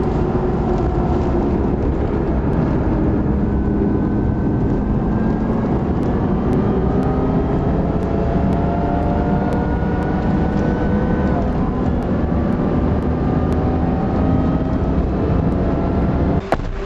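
Supercharged 3.5-litre V6 of a Lexus IS350 heard from inside the cabin at track speed, its note climbing slowly in pitch under acceleration over a heavy low road and wind rumble. The sound breaks off sharply for an instant near the end.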